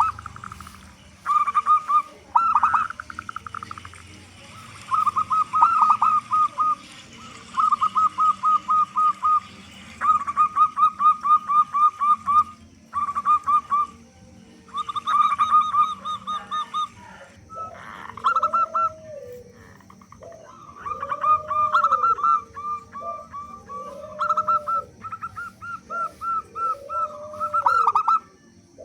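Zebra doves (perkutut) singing: quick runs of short staccato coos, one after another in bursts of a second or two. From about two-thirds of the way through, a lower, arched coo joins in, repeating about every second and a half.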